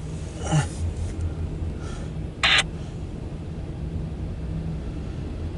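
Low, steady vehicle rumble, with a short burst of scanner-radio noise about two and a half seconds in.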